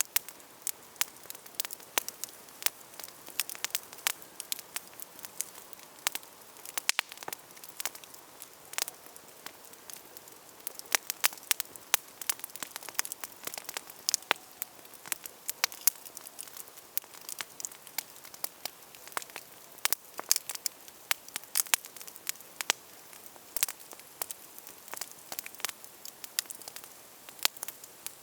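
Wood campfire crackling: many sharp, irregular pops and snaps, several a second, over a soft steady hiss of burning.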